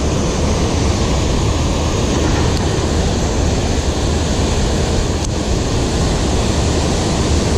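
Steady rush of water pouring over a river waterfall, an even noise with a deep low rumble underneath.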